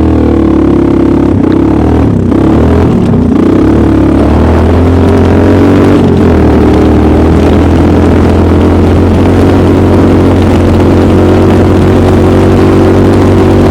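Homemade snowmobile's engine running loud under way, its pitch shifting a little in the first few seconds, then holding steady.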